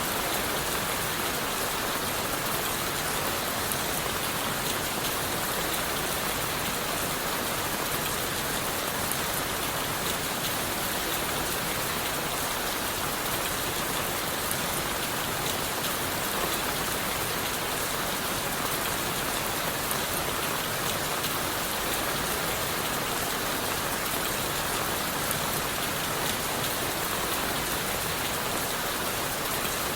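Steady rain falling on forest leaves and wood: an even, unbroken hiss dotted with many small drop ticks.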